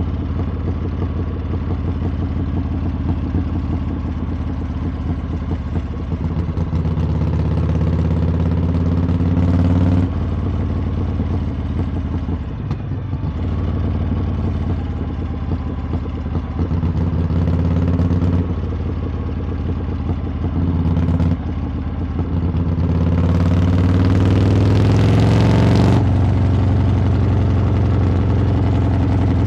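Harley-Davidson V-twin engine and exhaust running under way, the throttle opening and closing with brief dips in the note. Past the two-thirds mark comes one long climbing rev that cuts off sharply, as when the rider shifts or rolls off the throttle.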